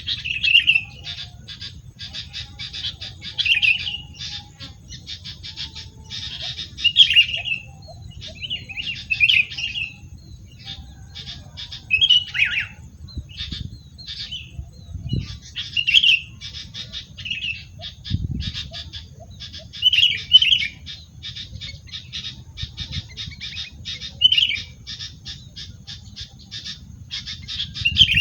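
A wild bird giving short harsh calls every second or two, with a fast dry chatter of ticks between them, over a steady low rumble.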